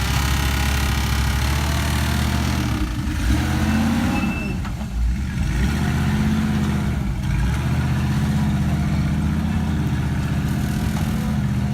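Engine of an off-road vehicle on 54-inch tires, running under load with the revs rising and dropping back several times.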